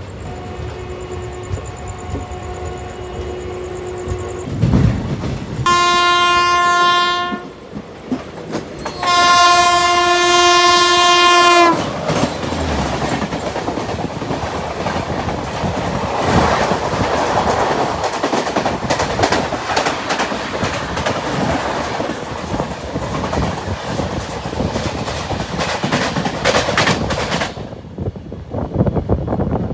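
Train horn: a fainter long note, then two loud blasts, the second longer. Then the loud rushing rattle of train wheels clattering over the rails, which stops abruptly near the end.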